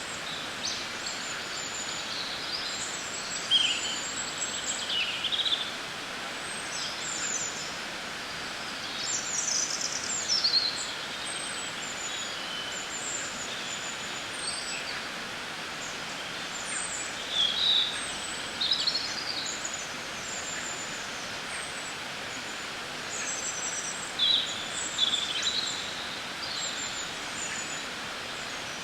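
Birds chirping and calling in short, scattered phrases over a steady background hiss, a nature-sounds ambience.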